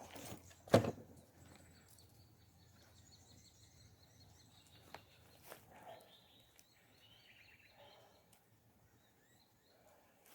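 Faint bird calls over quiet outdoor background noise, with one sharp knock about a second in.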